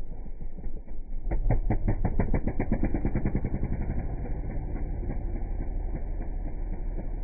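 Motocross dirt bike engine running, with a louder stretch of distinct, evenly spaced firing pulses from about a second in, then settling to steady running.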